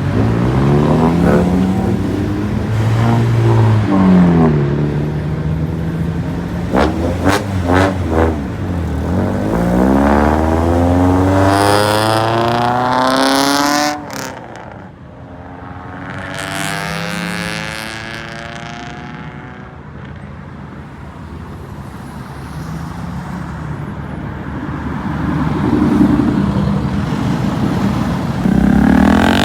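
Cars pulling out hard one after another, engines revving and accelerating with the pitch climbing. There are a few sharp cracks about seven seconds in. The sound drops off suddenly about halfway through, then a quieter car accelerates away, and engine noise builds again near the end.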